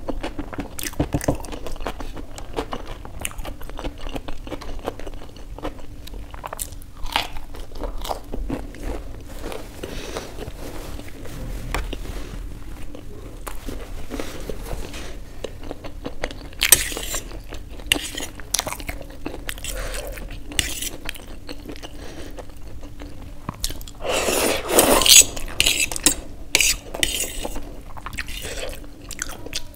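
Close-up eating sounds: chewing and crunching of fried samosa pastry, with a fork clinking and scraping on a steel plate. There are louder bursts about halfway through and again near the end.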